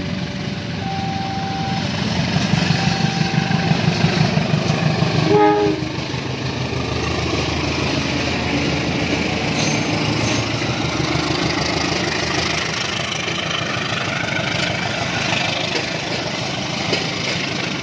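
Train passing close over a level crossing. The crossing's warning bell chimes a repeating two-note tone for the first few seconds while the loudest, pulsing part of the train goes by. There is a short horn note about five and a half seconds in, then the cars roll past with steady wheel-on-rail noise.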